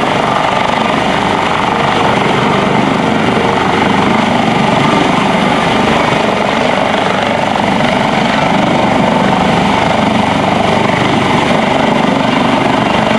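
US Coast Guard MH-65 Dolphin helicopter hovering close by during a rescue-swimmer deployment: loud, steady rotor and turbine noise.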